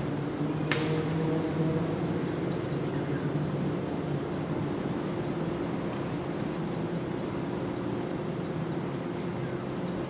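Steady low mechanical hum, like distant motor traffic, with one sharp click under a second in.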